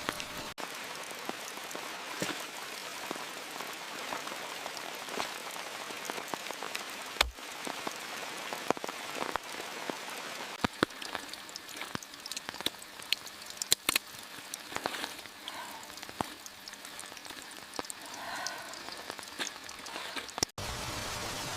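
Steady rain falling, with many sharp individual drop hits close by; the sound briefly cuts out twice, about half a second in and near the end.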